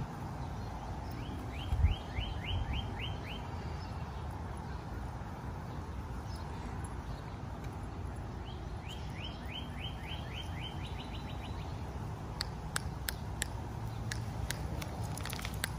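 A songbird sings twice, each song a run of about eight quick falling notes, over a steady low rumble. A few sharp clicks come near the end.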